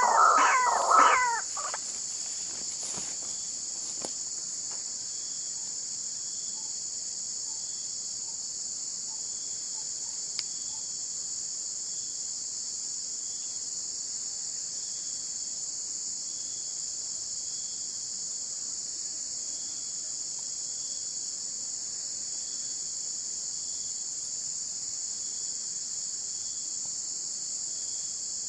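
Crickets chirring in a steady, continuous high-pitched chorus. A short run of animal calls is heard in the first second or so.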